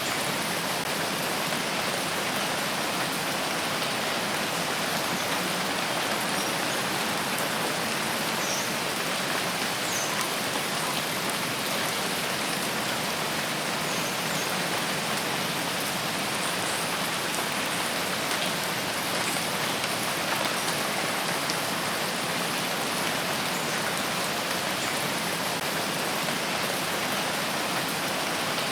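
Steady rain falling in a forest, an even hiss with no breaks, with a few faint, short high notes about a third of the way in.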